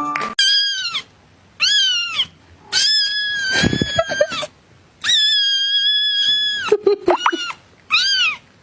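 A cat meowing over and over: about six high, arching meows, two of them long and drawn out, with short pauses in between.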